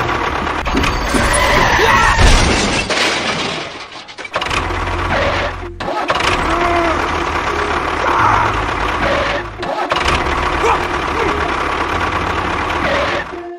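Engine running with a steady low rumble, broken by several abrupt cuts, mixed with music and short voice-like sounds.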